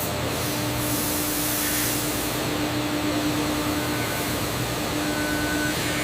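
Steady machinery hiss with a constant low hum. A faint, brief higher tone sounds twice in the second half.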